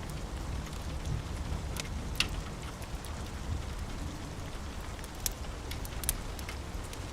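Steady rain with a low rumble underneath, and scattered sharp crackles and pops from a wood fire, several of them clustered about two seconds in and in the last couple of seconds.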